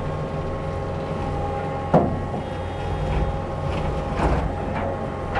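Takeuchi skid steer running steadily with a constant engine hum and whine, with one sharp crack about two seconds in and a burst of crackling a little after four seconds, as of wood snapping while trees are pushed over.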